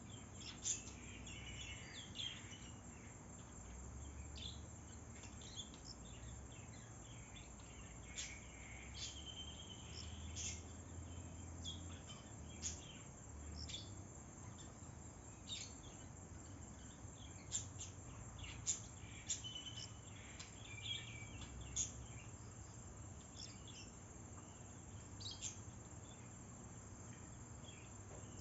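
Outdoor nature ambience: a steady high insect drone with short bird chirps and calls scattered throughout.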